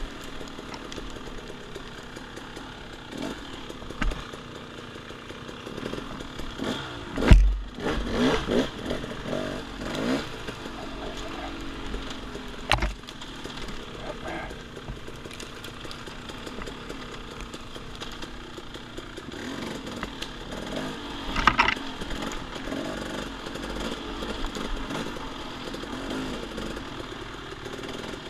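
Dirt bike engine revving up and down under way, with a few sharp knocks, the loudest about seven seconds in.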